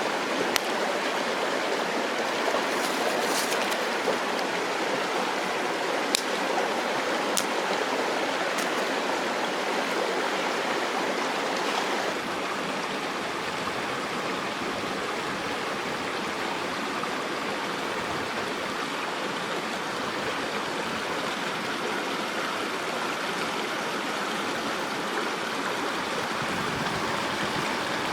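Mountain stream rushing steadily over rocks, a dense, even noise of running water, a little quieter after about twelve seconds. A few sharp clicks stand out over it in the first nine seconds.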